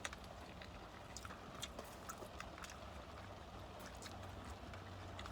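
Faint eating sounds: scattered small clicks and crunches of chewing fried chicken and handling the food, a few every second, over a low steady hum.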